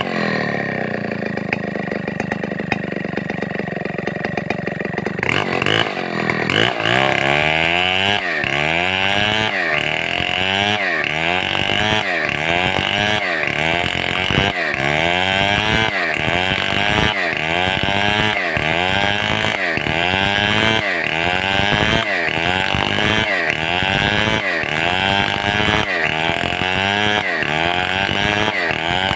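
Stihl 070 two-stroke chainsaw running. The engine falls from a rev to a lower steady speed, then about five seconds in opens up and cuts wood, its pitch dipping under load and recovering in a steady cycle a little over once a second, as in ripping a log lengthwise into a beam.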